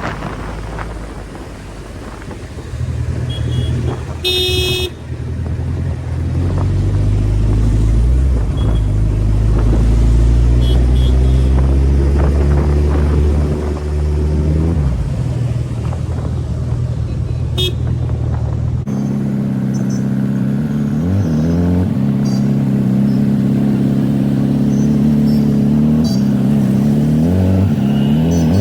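Suzuki Hayabusa's inline-four engine running under way in traffic, with a vehicle horn sounding briefly about four seconds in. Later the engine revs up and down a couple of times.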